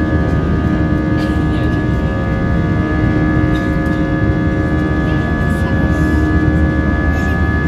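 Airbus A320's IAE V2500 jet engines heard from inside the cabin, running steadily: a deep rumble with a steady whine of several tones.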